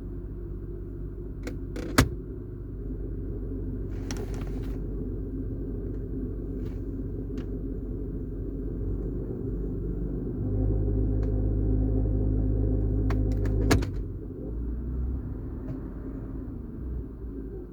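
Car engine idling on a cold start with a loose low rumble that comes only with the automatic gearbox in Drive; about two-thirds of the way in the revs rise slightly and the rumble grows louder, then a click of the gear selector into Neutral and it drops away. The owner links the noise to a recent drive belt replacement.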